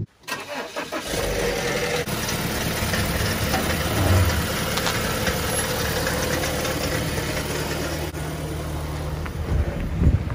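BMW car engine idling steadily, with a brief swell in level about four seconds in.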